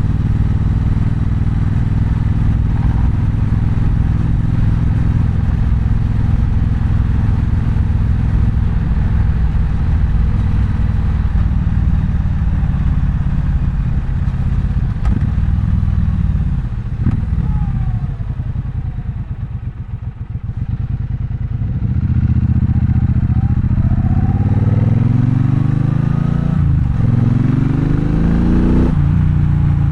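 Triumph Bonneville Bobber's 1200 cc parallel-twin engine, heard from the rider's seat. It runs steadily at first; about halfway through the revs fall away and it quiets to low revs. Then it pulls away again, revs rising in sweeps through the gears, with a gear change near the end.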